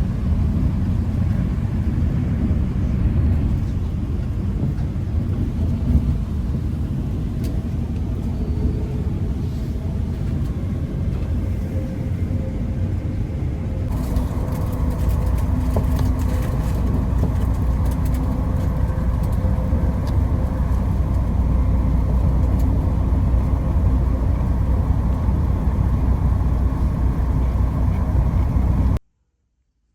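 Steady low rumble of a moving vehicle, its sound shifting and growing fuller about halfway through, then cutting off suddenly near the end.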